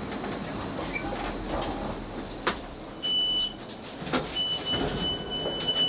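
Cabin noise of a Class 458 electric train pulling into a station, with a couple of knocks, then a high electronic beep from about three seconds in: first a short beep, then a longer one, typical of the door-release alert as the train stops.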